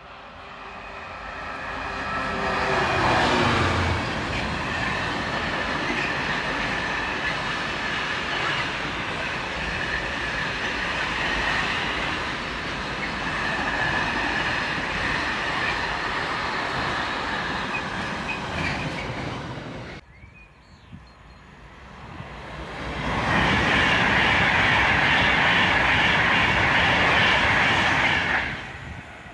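Class 66 diesel locomotive with its two-stroke V12 engine approaching and passing on a Freightliner container train, its engine note rising as it nears, then a long run of container wagons rumbling and clattering over the rails. After an abrupt break about 20 seconds in, a Class 390 Pendolino electric train rushes past at speed for about five seconds, the loudest part.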